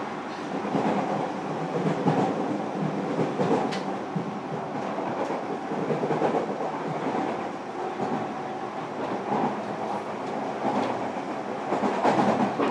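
Running noise inside a JR Kyushu 305 series electric train's motor car, heard from within the cabin: a steady rumble of the wheels on the rails with irregular clatter. It grows a little louder near the end.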